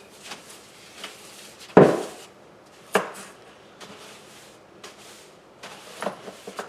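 Knocks and clatter of objects being handled during cleaning: a heavy thud about two seconds in, a sharper knock a second later, then a run of light clicks and taps near the end.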